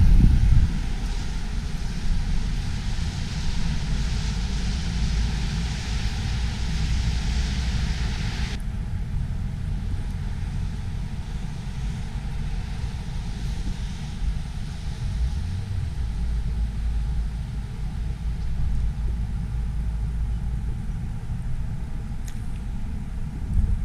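City street noise in a snowstorm: a steady low rumble of road traffic and wind on the microphone, with a higher hiss that drops away about eight seconds in.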